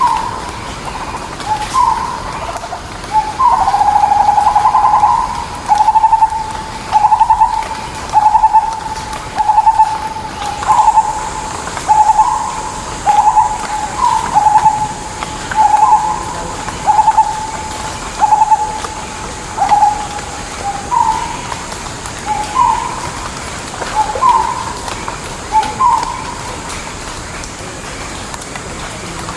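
A bird calling: one short, pitched call repeated about once a second, around twenty times, stopping a few seconds before the end.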